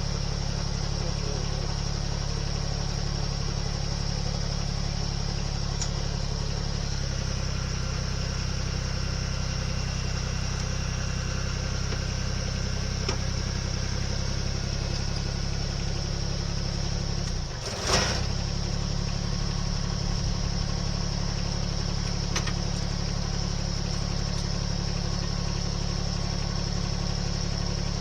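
An engine running steadily. Its pitch shifts slightly about a quarter of the way through, then dips sharply and recovers about two-thirds through, together with a single sharp clank, the loudest moment.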